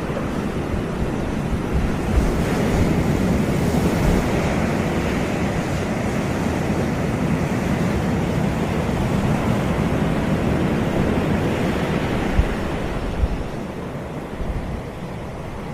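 Caribbean sea surf breaking and washing up a beach, swelling a few seconds in and easing off near the end, with wind rumbling on the microphone and two short low buffets late on.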